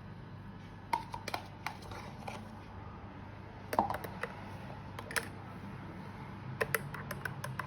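Light clinks and taps of a spoon against a glass, with a louder ringing clink about four seconds in and a quick run of taps near the end.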